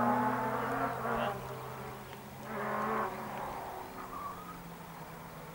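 Rally car engine heard from a distance, a thin buzzing drone that fades as the car drives off. It swells briefly about halfway through.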